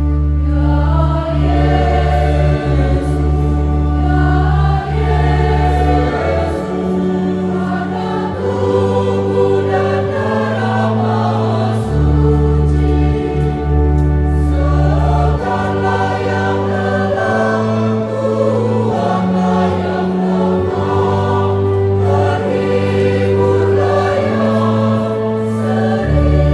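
Church choir singing a hymn over long held bass notes from an accompanying instrument, the bass changing every few seconds.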